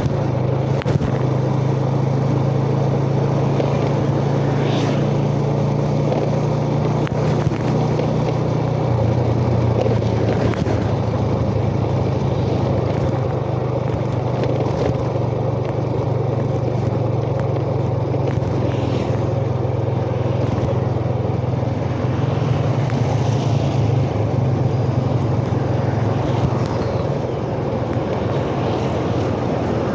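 Yamaha Jupiter Z's single-cylinder four-stroke engine running steadily while being ridden, heard through wind and road noise on a chest-mounted phone. The engine note changes about nine seconds in and again a little past twenty seconds.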